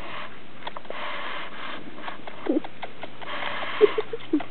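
Quaker parrot under bed covers making a few short, low chirps in the second half, over soft breathy rustling in three stretches and light clicks.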